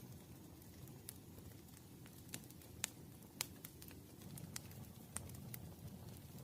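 Campfire crackling: a low, steady rustle of burning with scattered sharp pops and snaps, the two loudest about three seconds in, half a second apart.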